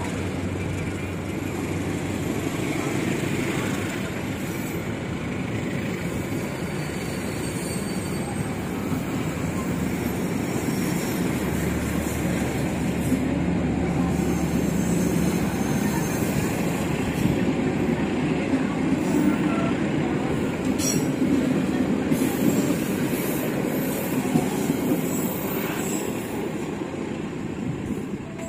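Passenger train pulling out of the station, its carriages rolling past with a steady rumble of wheels on the rails that grows a little louder midway.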